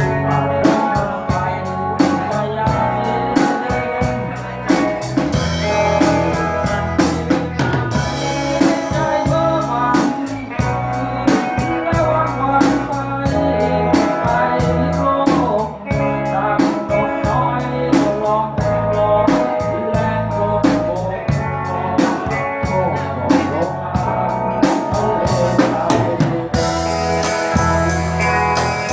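Live band music: a drum kit keeping a steady beat under guitar and bass.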